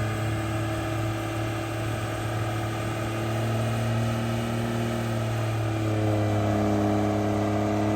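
A vehicle engine running steadily, its pitch rising slightly in the last couple of seconds.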